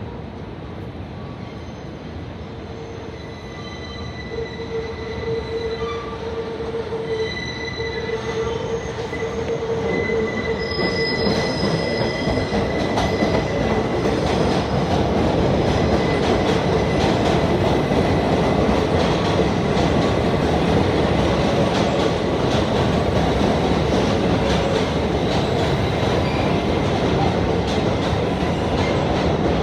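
New York City subway train coming into the station, its wheels squealing steadily at first and the sound growing louder over about fifteen seconds, then a loud, steady rumble and clatter of the cars on the track.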